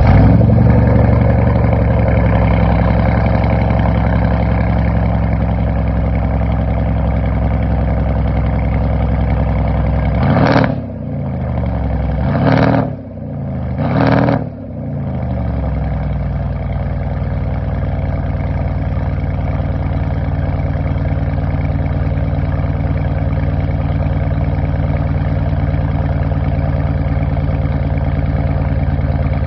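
Mercedes-Benz CLS500 (W218) twin-turbo V8 through a straight-piped exhaust with catalytic converters, at a high idle just after a cold start. About ten to fifteen seconds in it is blipped in three short revs, each rising and falling, then it settles back to a steady idle. The revs are held to about 2000 rpm because the engine is cold.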